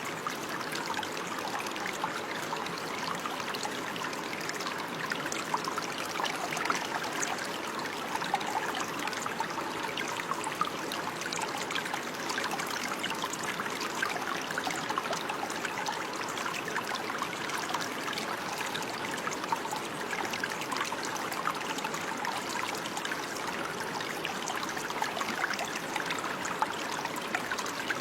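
Running water: a steady babble and trickle with many small splashes.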